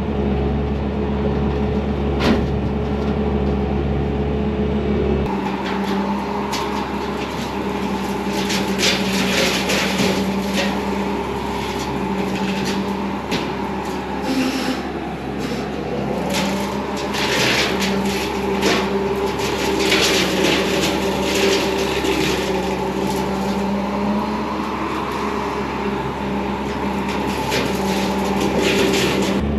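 Bobcat T595 skid steer's diesel engine running steadily under load while it drives a sideways-mounted hydraulic brush hog. From about five seconds in there is a rapid, irregular crackle of brush and branches being chopped by the spinning blades.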